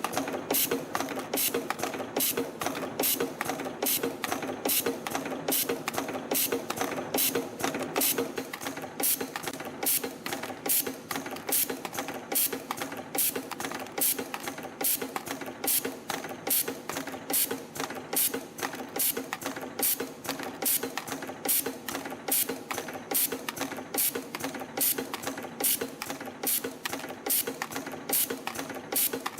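CT-210 CNC micro spring coiling machine forming torsion springs from 1.0 mm wire, running continuously: a steady mechanical hum under a fast, even run of sharp clicks as each forming cycle repeats.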